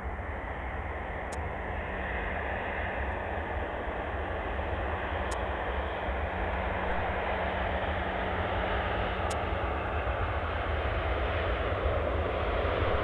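Easyjet Airbus A319 jet engines, a steady rush with a low hum that grows gradually louder as the airliner draws nearer.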